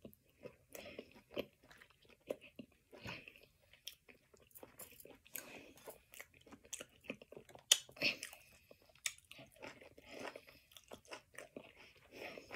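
Close-miked chewing and biting: a string of short, irregular crunches and wet mouth clicks.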